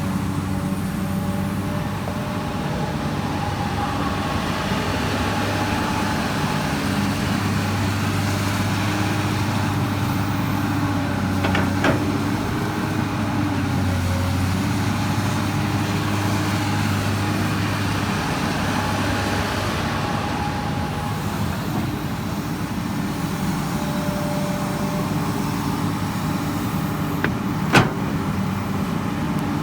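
Komatsu PC200 hydraulic excavator's diesel engine running steadily under working load, its note shifting a little as it digs. Two sharp knocks stand out, one about twelve seconds in and a louder one near the end.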